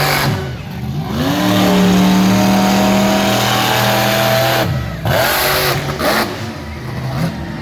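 Truck engine revving at a monster truck show: it climbs about a second in, holds at high revs for about three seconds, drops off, then gets a couple of short blips of the throttle.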